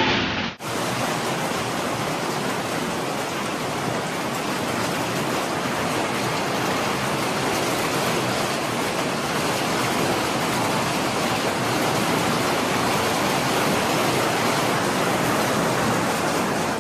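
Storm noise: a steady, even rushing hiss of driving rain, wind or water, starting abruptly about half a second in and holding at one level.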